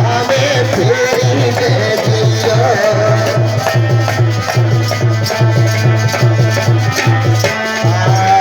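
Instrumental interlude of Indian devotional folk music: a hand drum keeps a steady, quick beat under a sustained melodic line.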